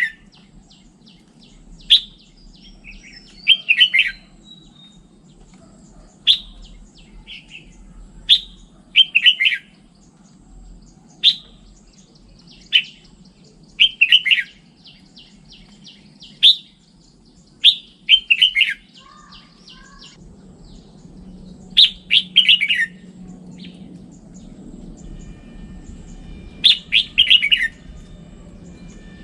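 Red-whiskered bulbul singing: short, loud, chirpy warbled phrases repeated every one to two seconds.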